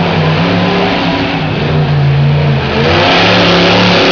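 Monster truck engine revving hard, its pitch rising and falling, growing louder about three seconds in.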